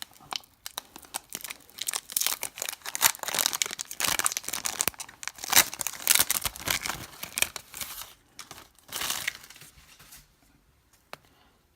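Panini Select trading-card pack wrapper being torn open and crinkled in the hands: a dense run of crackles and rustles that dies down about two seconds before the end.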